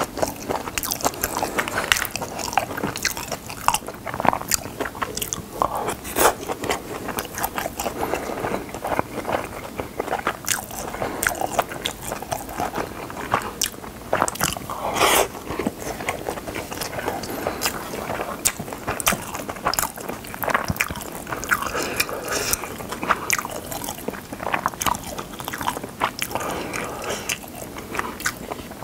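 Close-miked eating sounds: a person chewing and biting mouthfuls of Spam kimchi fried rice with fried egg and seaweed, a dense run of short wet mouth clicks, smacks and crunches.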